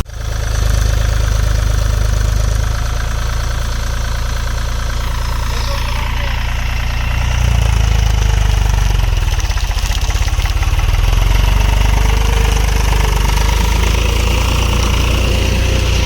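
Tractor diesel engine running steadily with a rapid low pulsing, growing a little louder about halfway through and again later.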